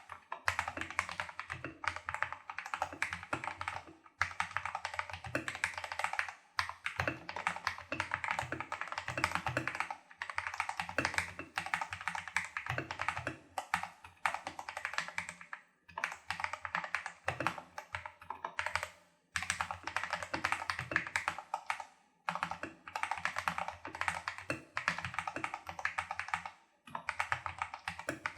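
Typing on a Tester68 custom mechanical keyboard with lubed Holy Panda clone tactile switches and XDA-profile keycaps: rapid keystrokes in runs of a few seconds, broken by brief pauses.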